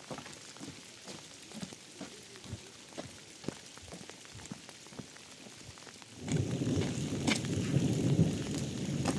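Light, scattered patter of rain. About six seconds in it gives way suddenly to a much louder, steady rush of heavy rain.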